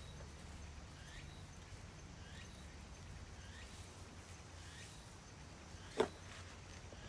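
Faint short chirps repeating about once a second over a low steady rumble, with one sharp knock about six seconds in.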